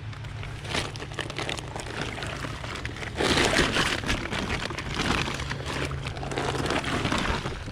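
Fabric rustling and water splashing as a carp sling is handled and wetted in the water, the water noise growing louder about three seconds in.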